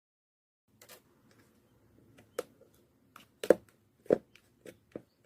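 Handmade fluffy slime being squeezed and poked by hand, giving irregular sticky clicks and pops. They start about a second in, and the loudest two come past the middle.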